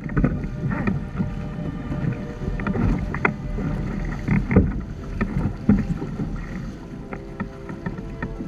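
Water slapping and splashing irregularly against the hulls of a Hobie Tandem Island trimaran under sail, over a low rumble of wind on the microphone.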